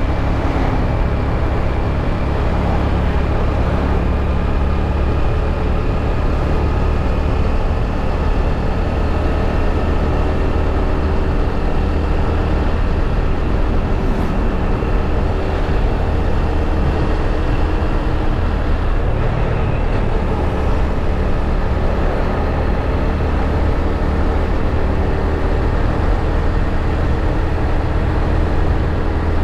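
Motorbike being ridden, its engine running steadily under road noise, the engine note shifting slightly in pitch now and then.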